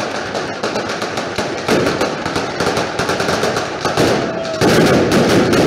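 Dense, rapid volleys of firecracker bangs crackling without a break, growing louder about four and a half seconds in.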